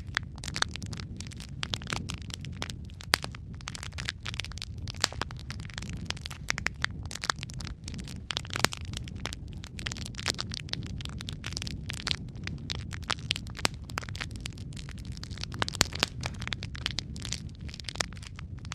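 Wood fire burning in a fireplace: irregular crackling and popping of logs, several sharp pops a second, over a steady low rumble of the flames.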